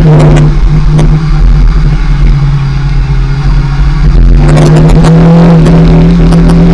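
Kawasaki ZX-6R's inline-four engine running under the rider, loud at close range. About half a second in the throttle comes off and the note drops lower and thinner. A little past the halfway point the throttle opens again and the engine pulls back up to a steady, fuller note.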